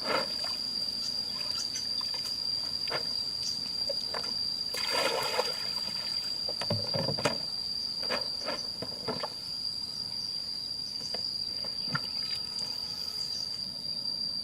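Insects droning on one steady high pitch, with scattered splashes and knocks of water being disturbed, the largest about five and seven seconds in.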